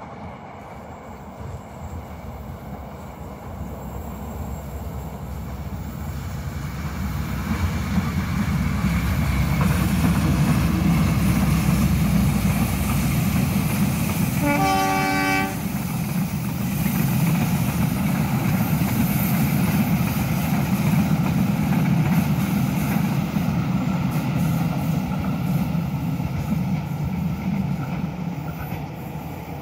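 Diesel locomotive hauling a passenger train as it approaches and passes, its engine and wheels on the rails growing louder over the first several seconds and easing off slightly near the end. About halfway through, the locomotive sounds one short multi-tone horn blast lasting about a second.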